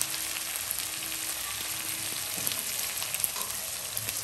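Raw onions and whole spices frying in hot mustard oil in a kadai, giving a steady sizzle.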